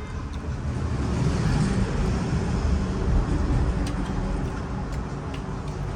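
Road vehicle noise: a steady rumble that swells about a second in and stays up.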